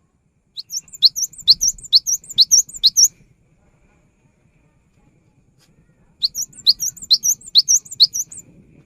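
Cinereous tit (gelatik batu) singing: two phrases of six or seven quick repeated high notes, each note a sharp upward sweep, the second phrase starting about three seconds after the first ends.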